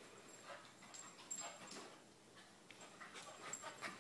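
Faint sounds of a dog, with short scattered clicks and scuffs.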